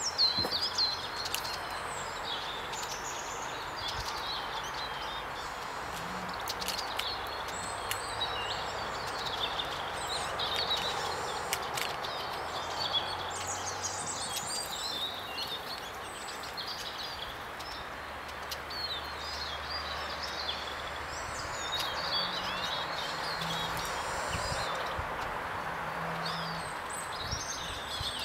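Small songbirds chirping and singing in short, repeated phrases over a steady background hiss of woodland ambience.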